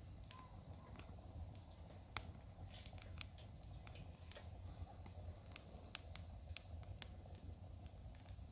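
Wood fire crackling: faint, irregular snaps and pops over a low steady rumble.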